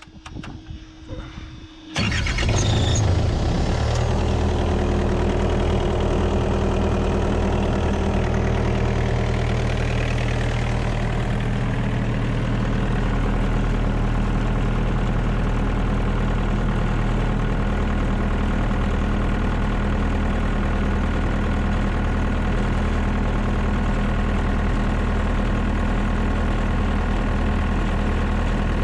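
A diesel engine starts up about two seconds in, then runs steadily at idle.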